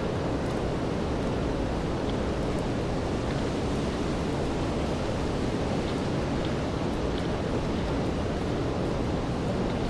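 Steady rainfall in a city street at night: a constant, even rushing hiss with a few faint ticks of drops.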